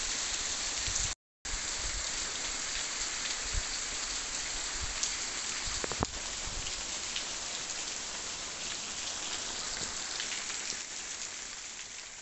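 Heavy rain falling steadily on vegetation and wet ground. The sound cuts out completely for a moment about a second in, and starts to fade near the end.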